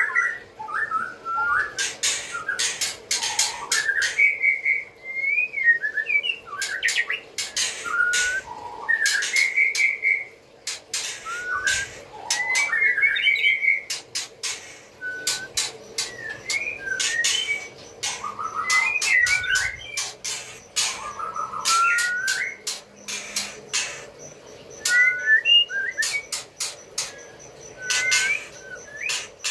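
A bird whistling short, varied phrases that glide up and down, mixed with many sharp clicks, over a faint steady hum.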